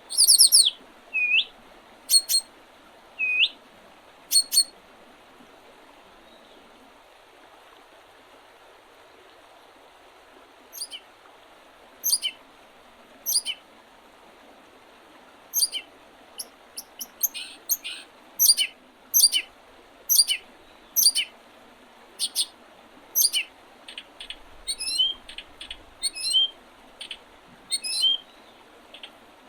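Wild songbirds in early spring giving short, high chirps and calls. A few come in the first seconds, then there is a pause of several seconds, and the calls grow more frequent in the second half. A steady soft hiss runs underneath.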